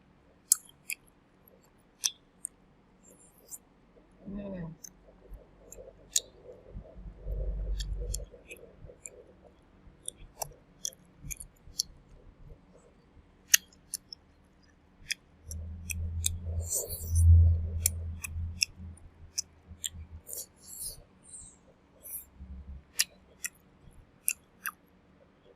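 Someone eating fried chicken thigh close to the microphone: scattered sharp crunching clicks of chewing. A few low muffled rumbles come in at two points.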